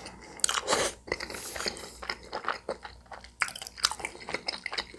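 A person chewing food with wet mouth sounds and irregular small crunches.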